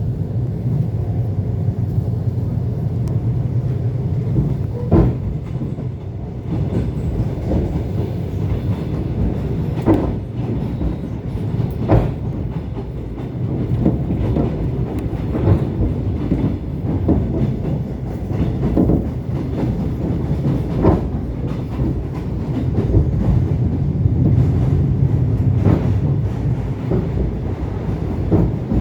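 ET2 electric train running along the track: a steady low rumble, with wheel knocks over rail joints every few seconds.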